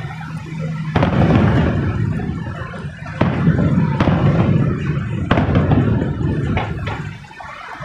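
Fireworks going off: several sharp bangs over a continuous low rumble of booms, easing off near the end.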